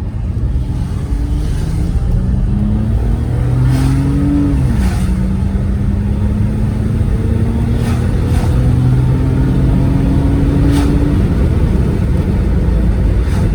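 Volvo 960 limousine's engine accelerating hard in sport mode, heard from inside the car. The engine note climbs, drops at a gearshift about four and a half seconds in, then climbs slowly again before easing off near the end.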